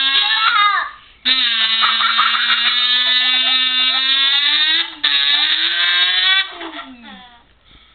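Kazoo buzzed to imitate a revving motorcycle engine: a steady buzzy note held in three long runs with short breaks, its pitch creeping up, then sliding down and fading away near the end.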